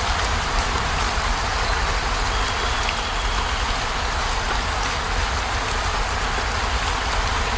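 Heavy rain falling steadily, an even hiss of downpour with a low rumble underneath.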